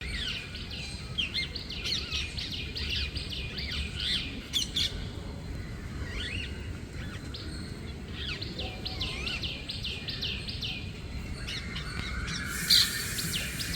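Bird chirping in quick runs of short, high calls, about five a second, in two bouts, with scattered single calls between them. A sharp click comes near the end.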